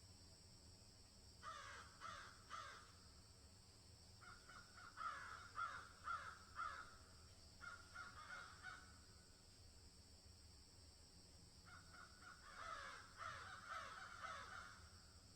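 Birds calling faintly in three bunches of rapid repeated calls, over a steady high hiss and a low rumble.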